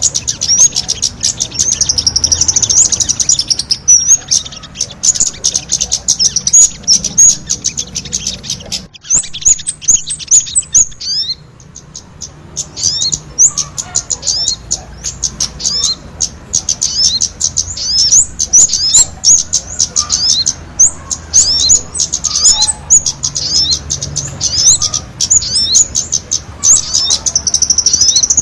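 Bird-lure recording of sogon calls mixed with a clamorous flock of kemade birds: a dense stream of rapid, high chirps and short down-slurred notes, thinning out briefly about ten seconds in.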